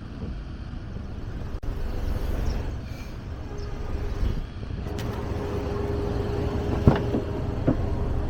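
Low, steady outdoor rumble with a faint hum. From about five seconds in come a few sharp clicks and knocks as the car's rear seat-back release lever and latch are worked to fold the seat down.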